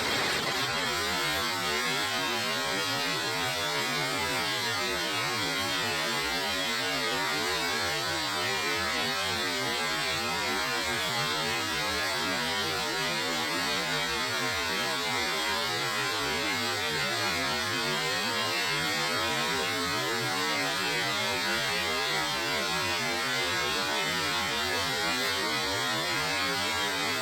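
Steady hiss of rain, an even wash of noise with no separate drop impacts standing out.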